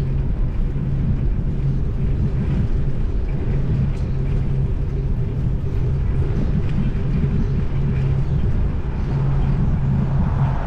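Steady low rumble of road traffic heard from a bicycle riding in city traffic, with a steady motor-vehicle engine hum that drops out briefly about eight seconds in and comes back.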